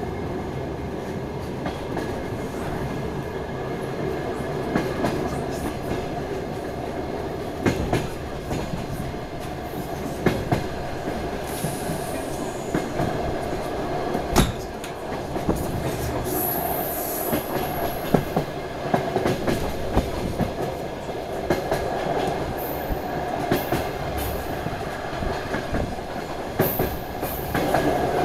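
DR1AMv diesel multiple unit under way, heard from aboard: a steady running rumble with sharp clicks of the wheels over rail joints every few seconds and a few brief high wheel squeals.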